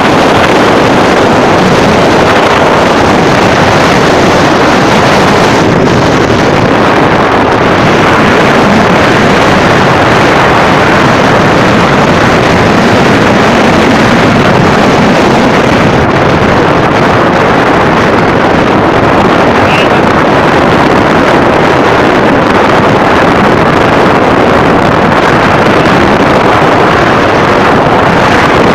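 Loud, steady storm noise: wind and heavy rain, with wind buffeting the microphone.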